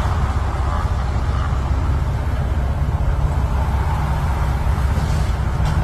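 Steady low drone of a motor vehicle's engine and road noise while driving.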